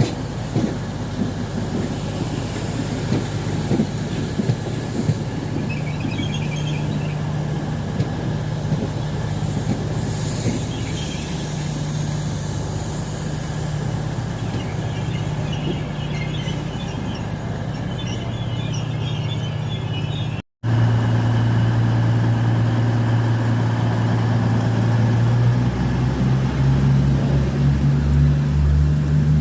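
A train running with a steady low drone, with faint squeals from the wheels. About two-thirds of the way through the sound cuts off abruptly and gives way to a louder drone from a train, which rises in pitch near the end.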